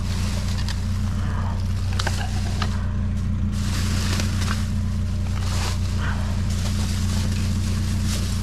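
A vehicle engine idling steadily, with scattered light clicks and knocks as junk is handled and sorted through.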